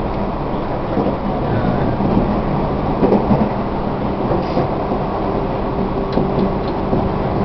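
Tobu 1800 series electric train running, heard from inside the passenger car: a steady rumble of wheels on rail under a low motor and gear hum, with a few short knocks from the track.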